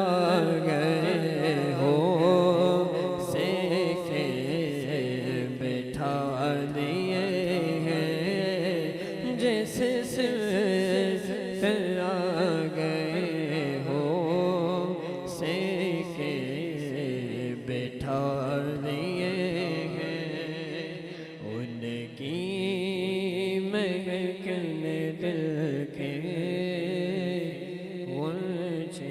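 A voice singing an Urdu naat in long, drawn-out phrases with short pauses between them.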